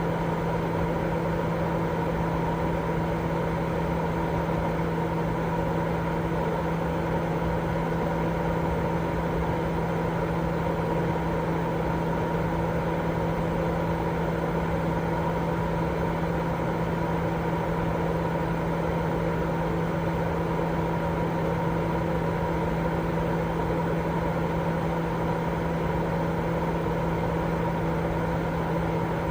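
Continuous sleep-aid white noise: an unchanging rushing hiss, fullest in the low and middle range, with a steady low hum and a fainter higher tone running through it.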